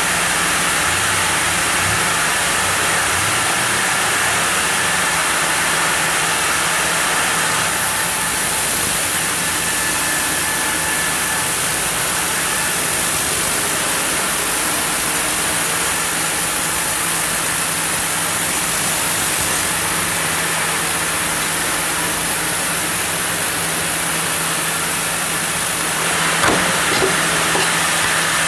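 Sawmill saw running steadily through a block of zelkova, a constant machine hum under a hissing cut. The hiss turns brighter about eight seconds in and falls back near the end, with a small knock just after.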